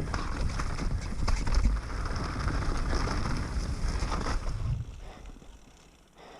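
Wind buffeting the microphone, with scattered clicks and rattles, dying down about five seconds in.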